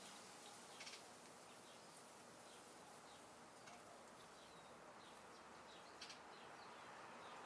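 Faint outdoor backyard ambience: a low steady hiss of air with scattered small bird chirps, and two brief sharp clicks, about a second in and about six seconds in.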